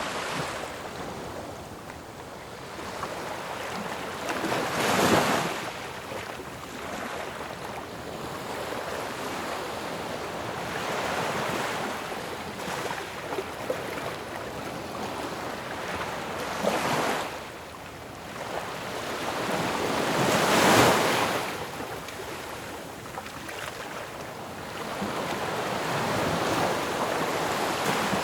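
Ocean waves breaking on a shore: a continuous rushing wash with waves cresting about five seconds in, again around seventeen seconds, and loudest around twenty-one seconds.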